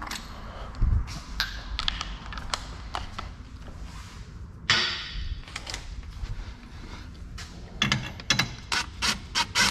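Metal hand tools and sockets clinking and knocking, scattered through, with a short rushing burst a little under halfway through and a quick run of sharp clicks near the end.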